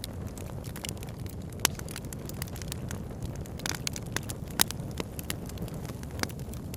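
Campfire crackling, with irregular sharp pops of burning wood; the loudest comes just past halfway. Under it runs a steady low rush.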